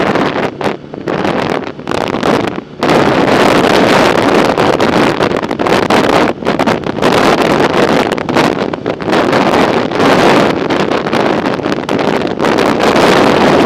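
Wind buffeting the microphone while cycling: a loud, gusty rushing noise that dips briefly a few times in the first three seconds, then holds steady.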